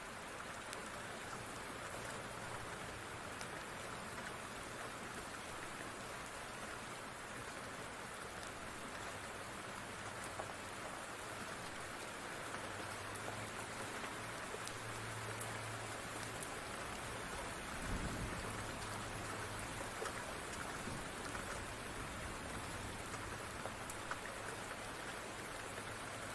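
Steady rain falling, with many scattered faint ticks and a brief low rumble about two-thirds of the way through.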